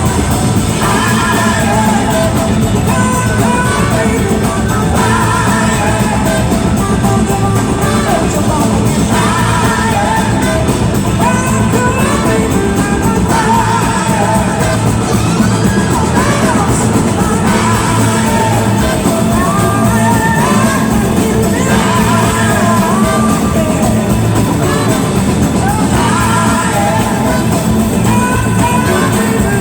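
Live rock band playing loudly, with several voices singing over the full band.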